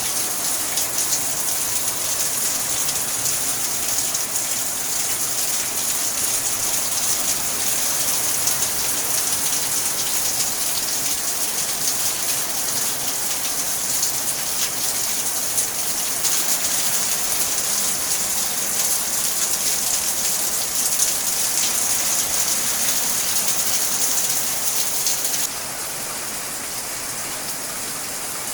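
Heavy rain pouring down steadily, a dense hiss of countless drops. About 25 seconds in it drops suddenly to a quieter, steadier level.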